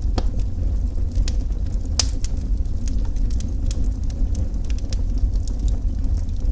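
Wood fire burning with a steady low roar and scattered sharp crackles and pops, the loudest pop about two seconds in.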